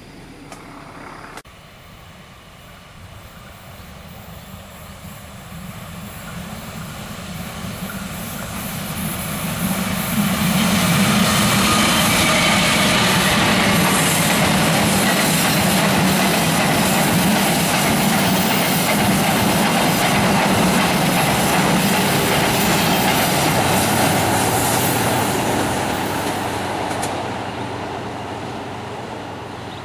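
Passenger train passing close by on the rails, its wheels clattering over the track. The sound builds over about ten seconds, stays loud for about fifteen, then fades as the train moves away.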